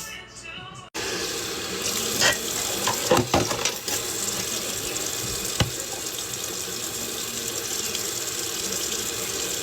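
Kitchen tap running steadily into the sink during dishwashing, starting abruptly about a second in, with a few clinks and knocks of dishes.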